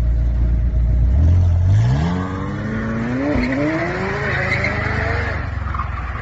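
Car engine running low, then accelerating hard, its pitch climbing steadily for about three seconds before levelling off.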